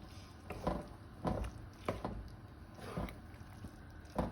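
A spoon stirring chickpea curry (pindi chana) in a pot, giving about half a dozen short, irregular knocks and scrapes against the pot.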